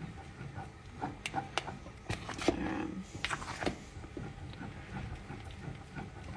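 Spoon or whisk knocking and scraping against a saucepan while stirring custard as it thickens on the stove: a few irregular clicks and a brief scrape about two and a half seconds in.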